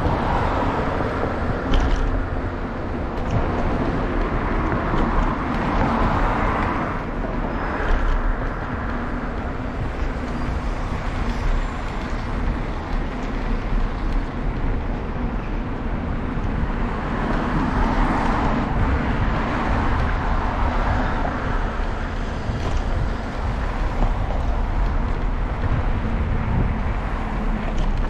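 Road noise heard from a moving bicycle: a constant low rumble, with passing motor vehicles swelling and fading several times, near the start, about six to eight seconds in, and again about eighteen to twenty seconds in.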